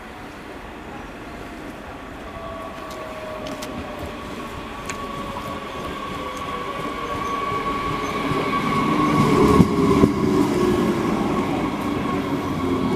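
A train approaching on the railway line, getting steadily louder for about ten seconds, with a steady whine and a second tone sliding down in pitch, then a few wheel clicks as it comes close.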